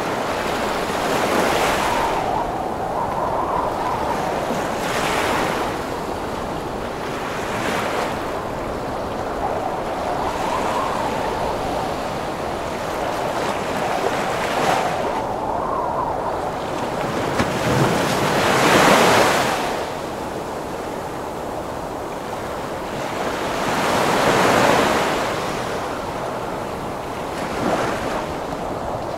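Heavy ocean waves breaking and washing in a continuous roar of surf, with a wind storm blowing over it. The waves surge in every few seconds, the largest crashes about two-thirds of the way through and again near the end.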